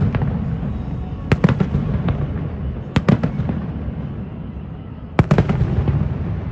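Aerial fireworks bursting overhead: three quick volleys of several sharp bangs each, about every two seconds, with a rumbling echo between them.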